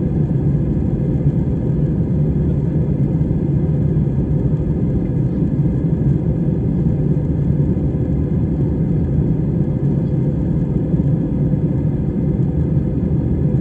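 Steady low rumble inside an airliner cabin in flight: jet engine and airflow noise, even and unbroken.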